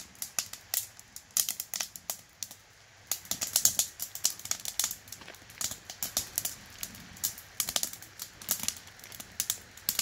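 Wood campfire crackling: irregular sharp pops and snaps, thinning briefly about two seconds in and busiest around four seconds in.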